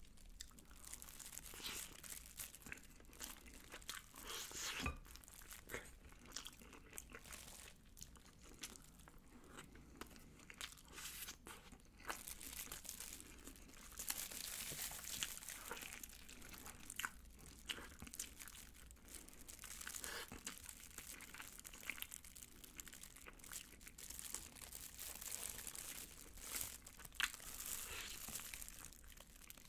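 Close-miked eating sounds: yangnyeom chicken (Korean fried chicken in sweet sauce) and rice being chewed, with many small crunches and wet clicks, and the crinkle of a plastic glove holding the chicken. A fresh bite comes near the end.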